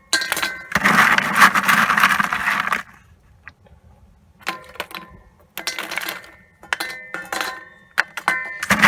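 Lumps of coal clattering into a homemade steel coal forge made from an old propane tank. A rattling pour lasts about two seconds, then after a pause single lumps clink down one at a time with a faint ring from the steel.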